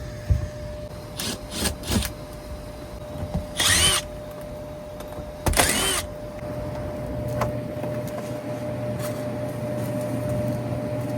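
A cordless drill/driver run in two short bursts of about half a second each, with a few clicks before them, over the steady hum of the running air handler, which gets fuller from about seven seconds in.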